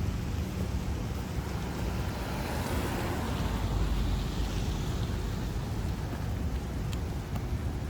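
Heavy storm surf on a rocky coast, with wind buffeting the microphone. A wave breaks and washes in, swelling about three seconds in and then fading back to a steady rumble.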